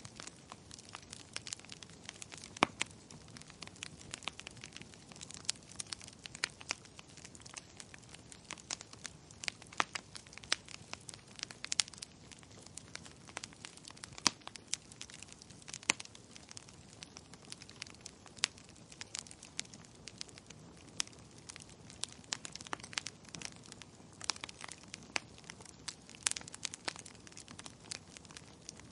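Wood fire crackling in a fireplace: irregular sharp pops and snaps, several a second, some much louder than others, over a faint steady hiss.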